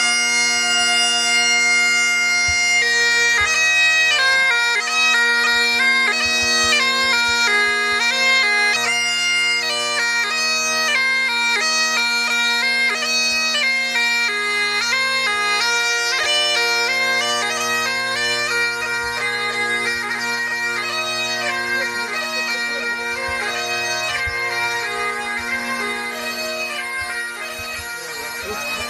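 Bagpipes playing a tune: a moving melody over steady unbroken drones.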